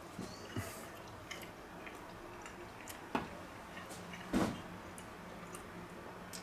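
Quiet eating sounds of a man chewing a bite of burger: a few scattered small clicks and one louder soft knock a little past the middle, over a faint steady low hum.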